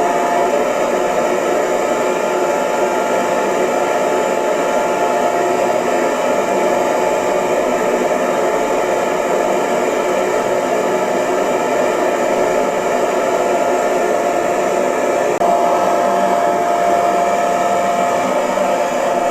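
Electric hair dryer running steadily, an even rushing blow of air with a thin steady whine that drops out shortly after the start and comes back about three-quarters of the way through.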